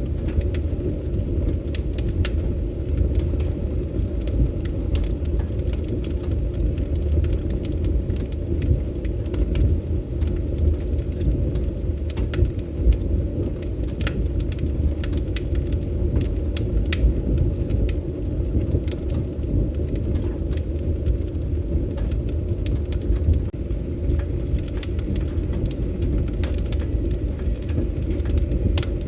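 Fire burning in a fireplace: a steady low rumble of flames with many sharp crackles and pops at irregular intervals.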